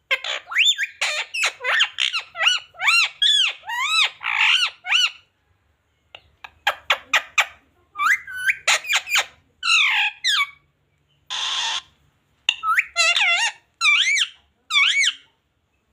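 Pet parrot squawking and chattering in quick runs of short calls that swoop up and down in pitch, with a brief harsh hissing screech about eleven seconds in.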